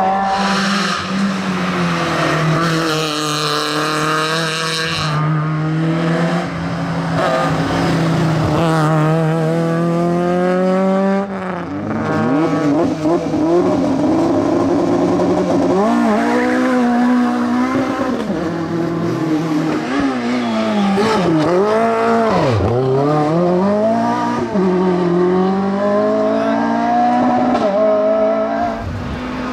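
Rally car engines on a tarmac hill stage, held at steady revs for the first dozen seconds, then revving up and dropping off again and again through gear changes and braking for corners, with some tyre squeal.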